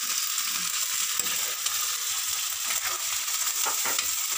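Vegetables sizzling steadily in hot oil in a wok, with a metal ladle stirring and scraping now and then as chopped pichay (bok choy) is pushed in from a plate.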